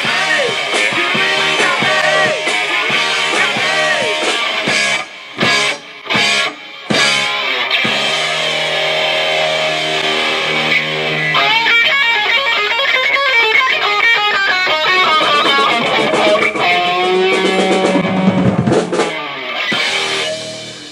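Live rock band playing a classic rock cover, led by electric guitar over drums; the band cuts out briefly three times about five to seven seconds in, and the music ends just before the close.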